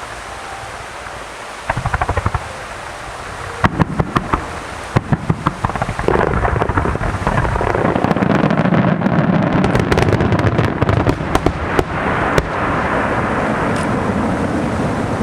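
Aerial fireworks in a rapid-fire starmine barrage. A few bangs come about two seconds in, then a quick string of sharp bangs builds into continuous crackling and booming through the middle. A steady rumble is left near the end.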